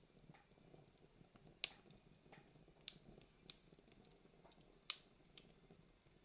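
Campfire burning quietly, the wood giving off sparse sharp crackles and pops at irregular intervals, the loudest about a second and a half in and again near five seconds, over a faint low hiss of the flames.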